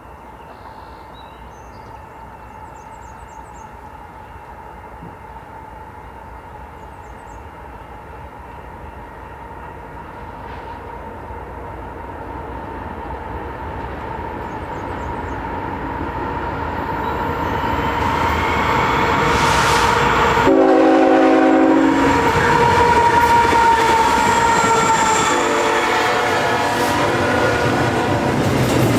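A CN double-stack intermodal freight train, led by two GE diesel-electric locomotives, approaches with a steadily rising rumble. The lead locomotive sounds its multi-tone horn in a short loud blast about two-thirds through, and again more faintly near the end, as the well cars start clattering past on the rails.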